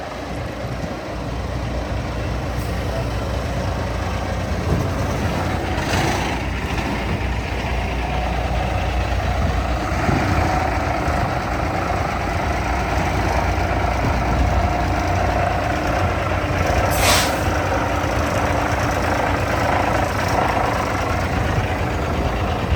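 Cummins ISX inline-six diesel in a 2005 International 9400i semi tractor, running steadily and a little louder from about ten seconds in. Two short hisses of released air from the truck's air system come about six seconds in and again about eleven seconds later.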